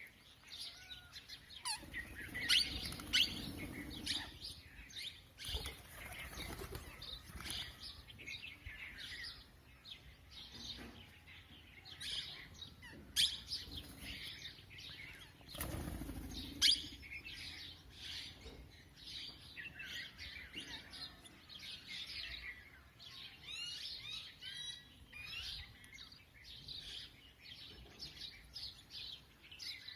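Parrots calling in many short, high chirps and squawks, with loud flurries of wing flapping a couple of seconds in and again about halfway through.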